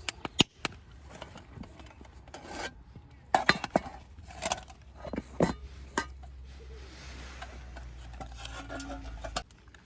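Metal utensils clinking, knocking and scraping against cookware in a run of separate sharp clicks. A steady low hum runs under the later part and stops suddenly near the end.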